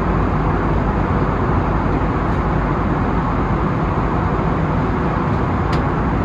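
Steady cabin noise of an Airbus A320neo-family jet in flight, its engines and airflow making an even rush with no change in level. A faint tick comes near the end.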